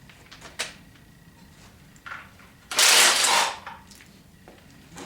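Cordless impact wrench hammering in one burst of about a second near the middle, working a bell housing bolt loose, with a few light metal clicks before it.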